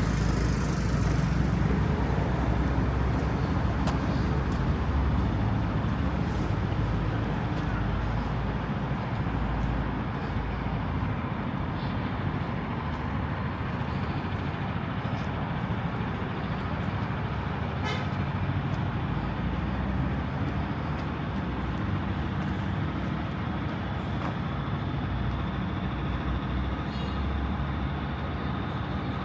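City road traffic: a steady wash of passing cars and buses with a low rumble.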